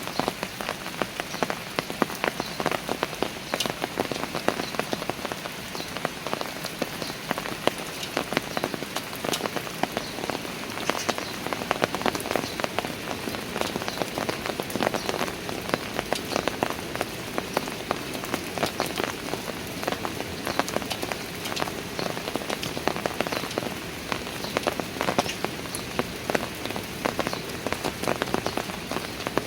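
Steady rain falling on outdoor stone or concrete steps, a continuous hiss with many close, sharp drops pattering and splashing.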